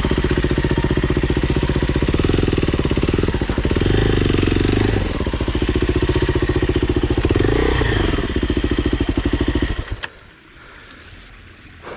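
Dirt bike engine running at a steady low speed, with a couple of slight rises in revs. The sound cuts off abruptly about ten seconds in.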